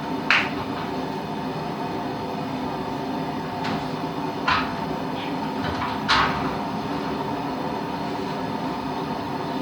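Steady mechanical hum of a forge, most likely its air blower, with four sharp metal clanks over the first six seconds or so.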